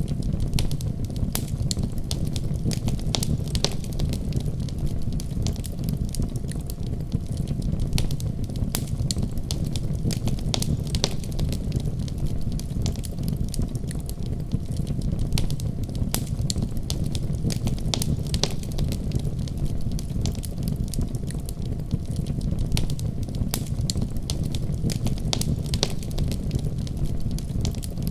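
Wood fire burning steadily with a low rumble and frequent irregular crackles and pops.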